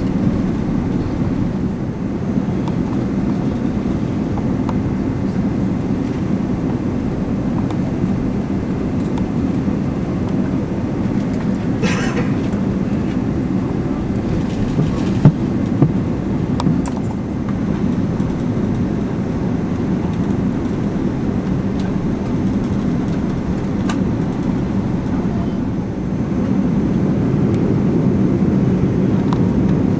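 Steady low cabin rumble inside an Airbus A380 taxiing after landing, with a few clicks and two sharp knocks about halfway through; the rumble grows a little louder near the end.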